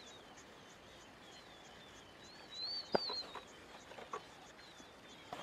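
A bird singing a high, warbling song, loudest about halfway through, with a sharp knock about three seconds in.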